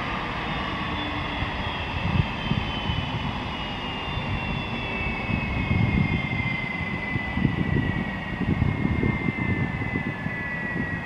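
Airbus A300B4's jet engines whining over a low rumble, the whine falling slowly in pitch.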